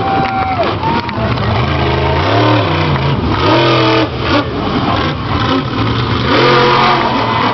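Monster truck's supercharged V8 engine revving up and down several times during a freestyle run.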